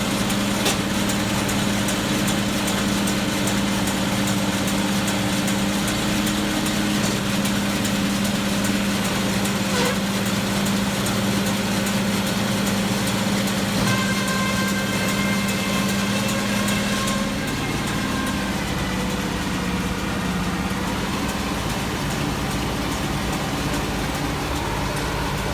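International 1086 tractor's diesel engine running steadily while the round baler dumps a bale. A higher steady whine joins for about three seconds about two-thirds of the way in, and the engine note then drops slightly lower.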